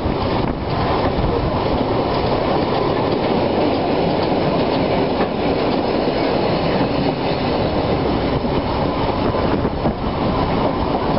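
Narrow-gauge steam-hauled passenger train running along the track, heard from an open carriage window: a steady running noise of the wheels on the rails.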